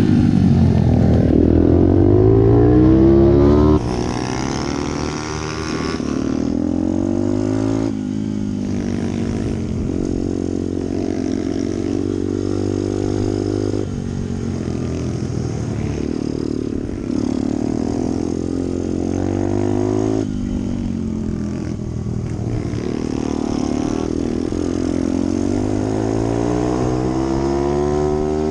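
Pit bike engine racing, its pitch climbing under throttle and dropping back again and again as the rider opens up, shifts and rolls off. It is louder for the first four seconds, then settles a little lower.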